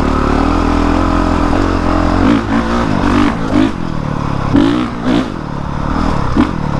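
Honda CRF450R dirt bike's single-cylinder four-stroke engine running steadily, then given repeated short bursts of throttle from about two seconds in, each rev rising and falling in pitch as the bike is ridden over roots.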